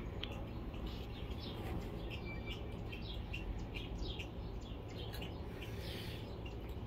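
Small birds chirping in quick, repeated short chirps over a steady low background hum.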